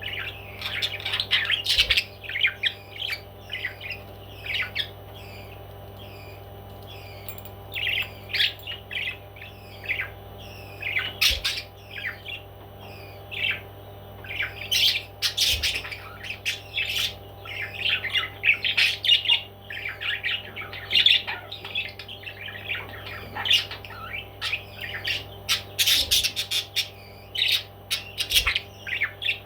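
Pet parrot squawking and chirping in many short, irregular calls, with a few sharp clicks, over a steady low hum.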